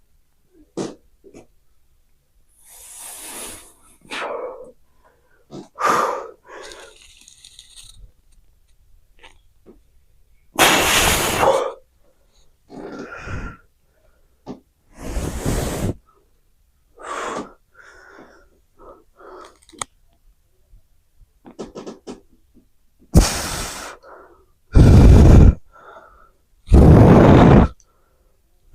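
A man breathing out hard in short forceful blasts while flexing, each about a second long, separated by quieter stretches, with the loudest few near the end.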